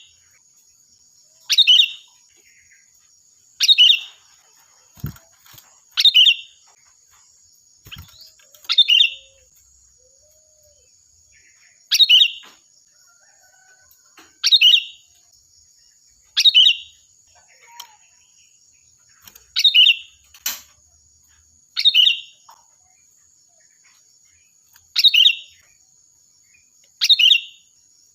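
Sooty-headed bulbul (kutilang) giving short, loud, ringing calls, one about every two seconds, over a faint steady high-pitched whine.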